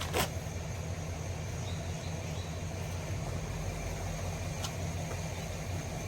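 Car engine running steadily at idle, a low even rumble, with a sharp click just after the start and a lighter one about four and a half seconds in.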